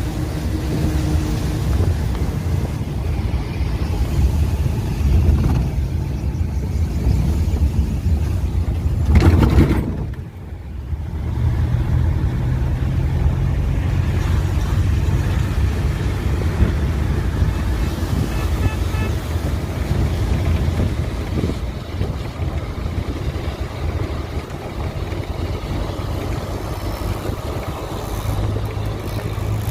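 Steady low rumble of a moving vehicle, swelling to a louder rush about nine seconds in and dropping briefly before it settles back.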